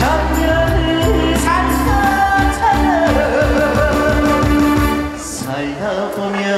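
Live band music from a Korean trot song, with steady bass and a wavering lead melody line; the music eases briefly about five seconds in before picking up again.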